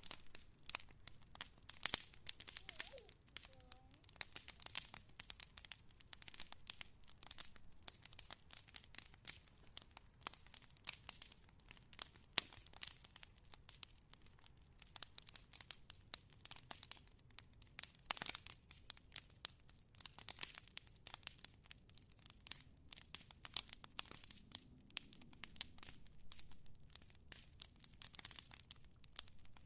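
Fire crackling: a steady hiss with dense, irregular pops and snaps, one sharper snap a little past halfway.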